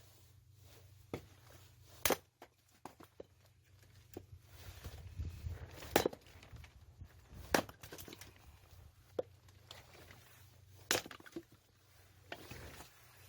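Firewood being split by hand: a series of separate sharp wooden strikes every couple of seconds, four of them loudest, with fainter knocks of wood between.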